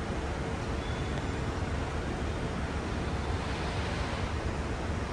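Steady rumble of city road traffic, an even noise heaviest at the low end with no distinct events.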